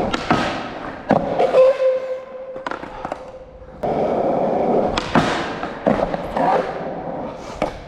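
Skateboard wheels rolling on concrete, broken by several sharp clacks and slaps of the board striking and sliding on a bench edge and landing back on the ground.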